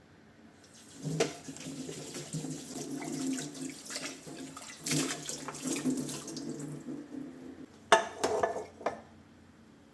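Water running from a kitchen tap into a sink while dishes are washed, starting about a second in. A sharp knock near the end.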